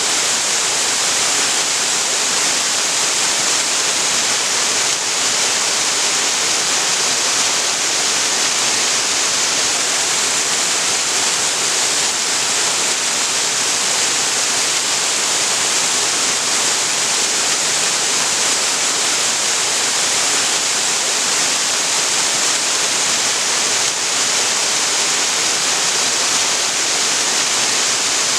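Waterfall pouring steadily into a creek pool, a constant rushing hiss of falling water.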